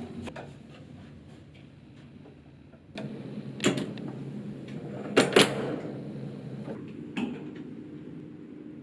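Hotel room door being handled: a few sharp knocks and clicks, the loudest pair about five seconds in, with a low steady hum coming in about three seconds in.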